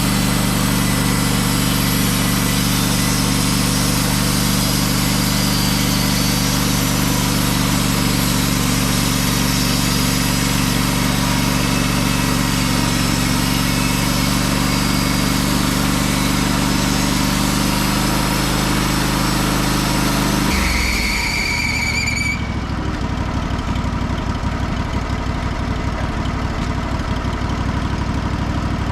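Wood-Mizer LT15 Wide band sawmill running at full throttle, with the band blade cutting through a poplar log. About 20 seconds in the cut ends, there is a brief high squeal, and the engine drops to idle.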